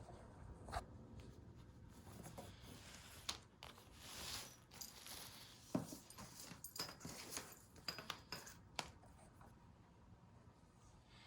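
Scattered light taps, clicks and rustles of a cat playing with a toy, with a soft rustling stretch around four seconds in and a quick run of clicks after the loudest tap near six seconds.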